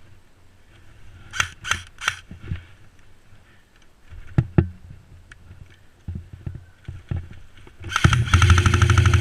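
Airsoft gun firing: three sharp cracks about a second and a half in, a couple more around four seconds, then a rapid full-auto burst of about two seconds near the end.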